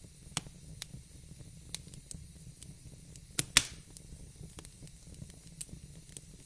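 Wood fire crackling in a fireplace: scattered sharp pops and snaps over a steady low rumble and soft hiss, with a loud double pop a little past the middle.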